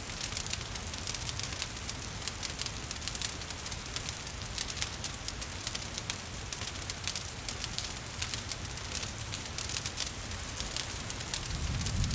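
Wood fire crackling with many small, quick snaps over a steady hiss of rain. A low rumble swells near the end.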